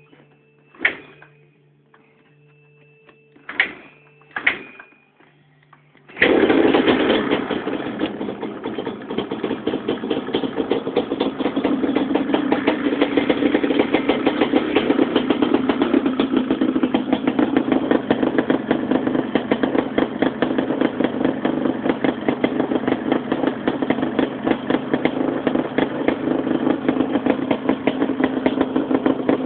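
Yamaha Banshee's 350cc twin-cylinder two-stroke engine cold-starting. Three sharp knocks, then about six seconds in the engine catches suddenly and runs on steadily with a rapid, uneven firing beat.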